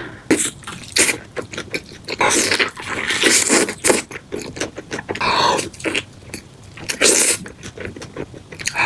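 Close-miked crunching and chewing of crispy fried chicken: irregular crackling clicks of the breaded crust between the teeth, with several louder crunching bites.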